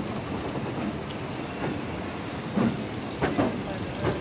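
Railway coach rolling along the track with a steady rumble, and a few wheel clacks over rail joints in the second half.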